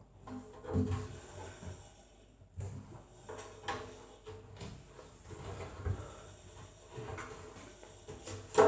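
Irregular knocks, scrapes and rustles of objects being handled, with a sharper, louder knock near the end.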